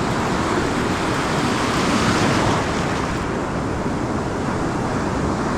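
Ocean surf washing onto a sandy beach, one wave swelling louder about two seconds in, with wind noise on the microphone.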